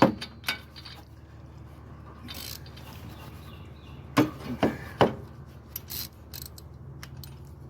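Socket ratchet clicking and metal tool clinks as a spark plug is worked out of a Kawasaki FR691V V-twin mower engine, with a few sharp knocks about four to five seconds in.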